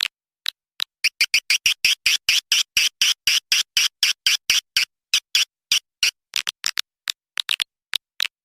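Swiftlet lure call (suara panggil walet): a fast run of short, high, sharp chirps, about five a second, thinning out near the end.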